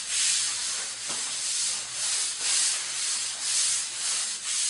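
Primer being scrubbed into bare ground concrete in regular strokes, roughly one a second, with a faint low steady hum underneath.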